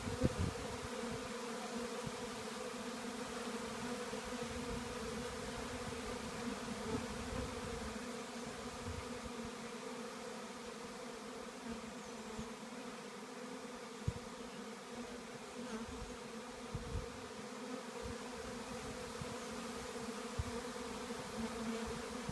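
A swarm of honey bees buzzing around and into a swarm trap: a steady, dense hum of many wingbeats, with a few brief low bumps scattered through.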